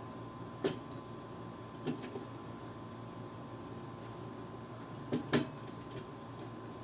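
A few light clicks and knocks from handling small hardware. There is one single knock, then another, and then two close together about five seconds in, over a faint steady hum.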